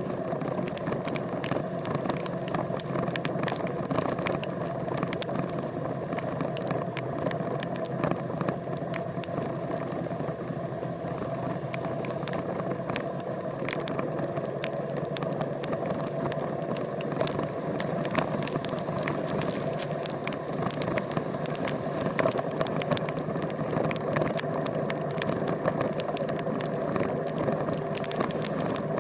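A steady engine-like running noise with frequent small clicks and rattles throughout.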